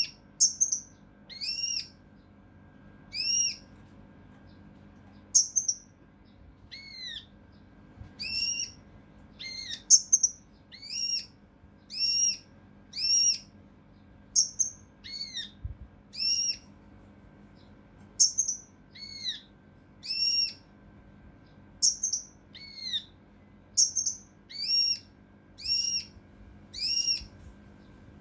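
A kinoi (cucak rante mas) calling in rapid, closely repeated short shots, about one a second. Each call is a quick arched, sharp whistled note.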